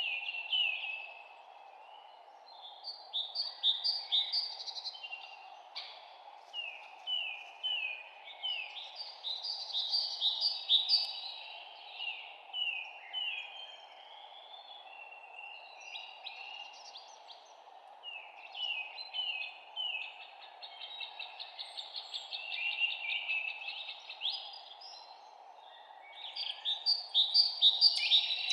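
Songbirds singing in bouts of quick, repeated, falling notes, loudest near the start, in the middle and near the end, over a steady low hiss of background noise.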